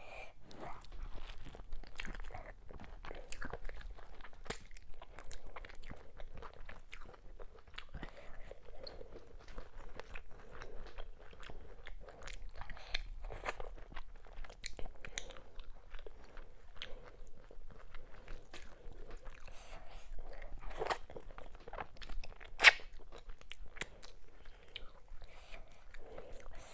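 Close-miked chewing and wet mouth sounds of a person eating fufu dipped in slimy ogbono soup by hand, with frequent small clicks and smacks. One sharp, louder click comes late on.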